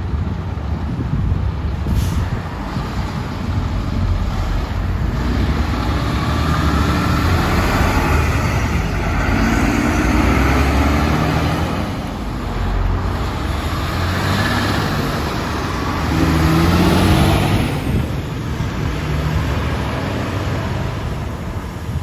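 Heavy diesel trucks driving past, engines running with the note rising and falling as they pull through the gears.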